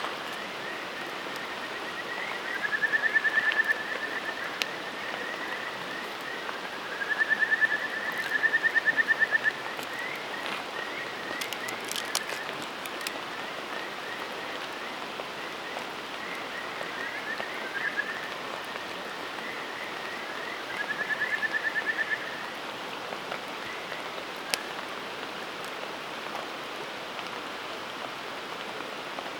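A frog calling in rapid pulsed trills, four bouts of a second or two each, over a steady rushing noise like running water. A few sharp crackles near the middle and once later.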